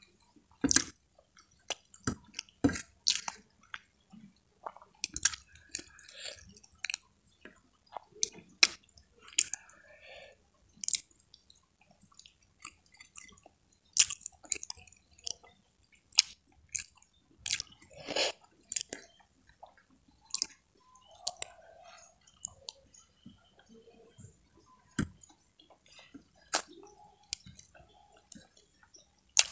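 Close-up mouth sounds of a person chewing water spinach and fried tempeh: irregular wet smacks and clicks, a few each second, with occasional soft crunches.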